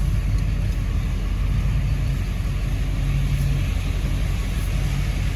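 Pickup truck engine running steadily at low speed while creeping forward, a low even hum.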